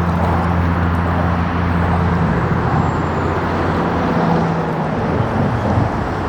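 Steady low engine hum over continuous traffic-like noise; the hum stops about five seconds in.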